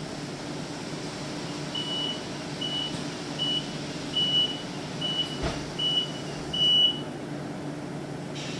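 A high electronic beeper inside an electric city bus sounds about seven short beeps of uneven length and spacing, over the bus's steady low cabin hum. A single sharp knock comes about halfway through the beeping.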